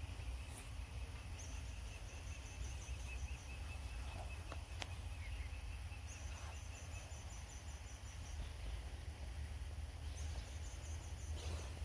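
Faint outdoor ambience: a steady low rumble with a high, rapidly pulsed trill repeated three times, each lasting a second or two, and a thin wavering whistle-like tone through the first half.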